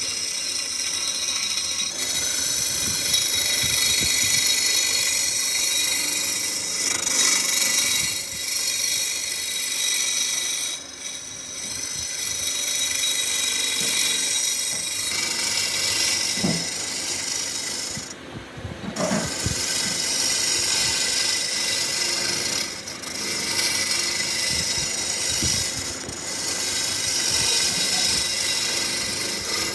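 A power tool working wood, running steadily with a rasping, abrasive sound and a few brief pauses, the longest about two-thirds of the way through.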